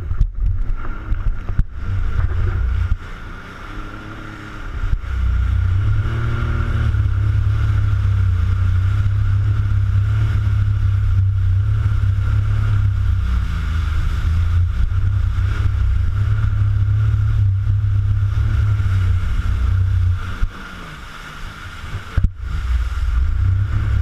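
Jet ski running on open water, its engine whine steady with heavy wind rumble on the microphone; it eases off briefly twice, once a few seconds in and again near the end.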